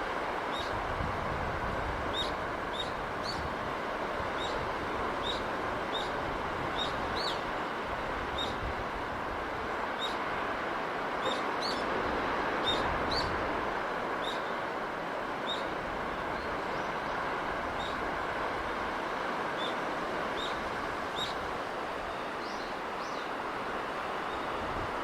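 Steady rushing of sea breeze, with a small bird chirping high and briefly, about once or twice a second, through most of it.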